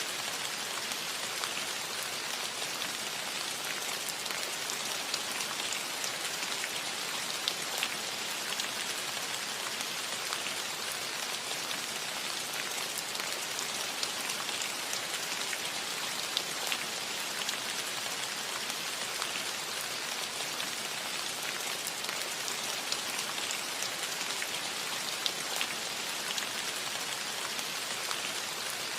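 Gentle, steady rain on a metal roof: an even hiss of falling rain with many small, separate drop taps scattered through it.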